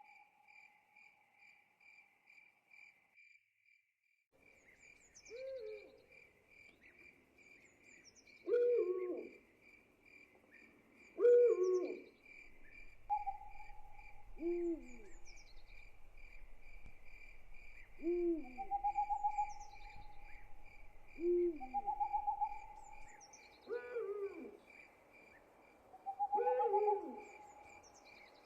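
An owl hooting repeatedly, a short falling call about every three seconds, over a steady pulsing cricket trill. Longer held calls sound between the hoots. The trill drops out briefly about three seconds in.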